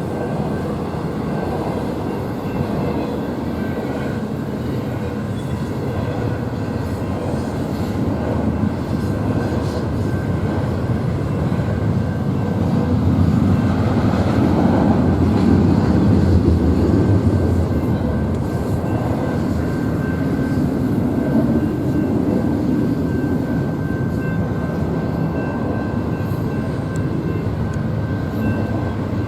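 Freight train passing close by: a continuous rumble of rolling cars, swelling to its loudest about halfway through, then cutting off suddenly at the end.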